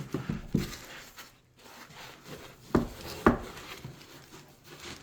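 Hands handling a large cardboard box-set package: rubbing and sliding, with a few light knocks at first and then two sharper knocks about half a second apart.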